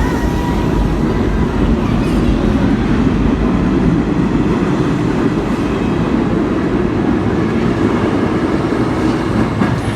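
Vintage New York City R9 subway car running on the track, a loud, steady low rumble. A faint high whine sounds over it in the first two seconds, then fades.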